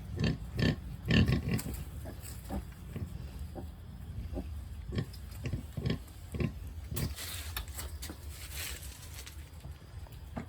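Pigs grunting in short, low grunts, the loudest about a second in, with a stretch of soft hissing noise around seven to nine seconds in.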